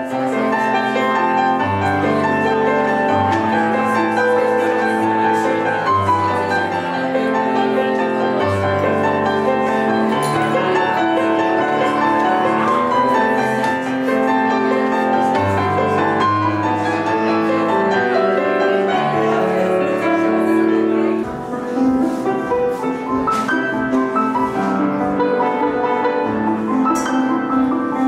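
Piano playing a medley of pop chart songs learned by ear, with sustained chords and a melody; the deep bass notes drop out about 21 seconds in.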